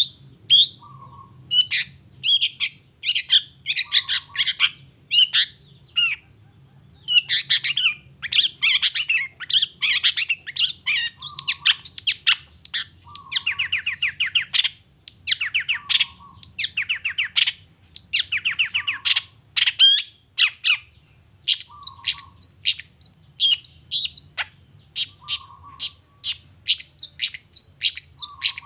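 Long-tailed shrike (cendet) singing a rapid, varied song of sharp chirps and fast rattling trills, with a short lower note that recurs about every two seconds. A faint steady low hum lies underneath.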